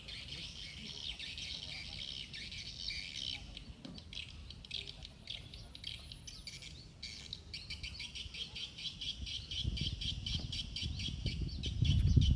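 Birds chirping and calling, breaking into a fast, even run of repeated short notes in the second half. A low rumble builds under it near the end.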